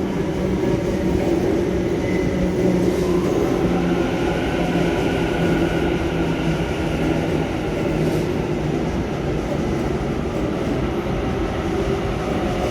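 Electric suburban train pulling out of the platform: a steady rumble and hum, with the traction motors' whine rising in pitch a few seconds in as it accelerates.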